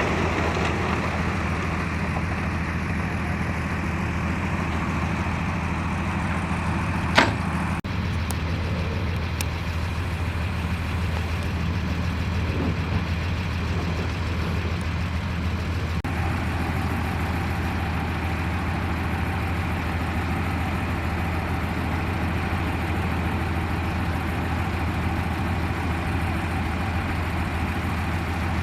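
Heavy diesel engine of construction machinery running steadily, with one sharp clack about seven seconds in.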